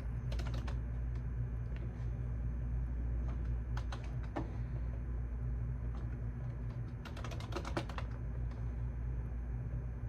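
Computer keyboard typing: scattered single keystrokes and short runs of keys, with a quicker burst of about a dozen keystrokes around seven seconds in, over a steady low hum.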